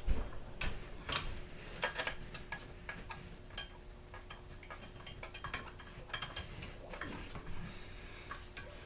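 Scattered light clicks and metallic taps of hand tools and small engine parts being handled during a strip-down, busiest in the first two seconds, over a faint steady hum.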